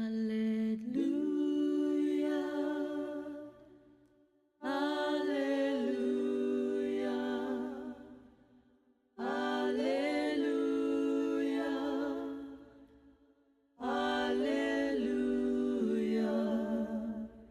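Unaccompanied singing in four long held phrases, each fading away before the next begins.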